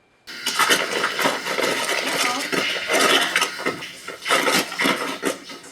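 Continuous clattering and clinking of hard objects, many short knocks in quick succession. It starts suddenly a moment in.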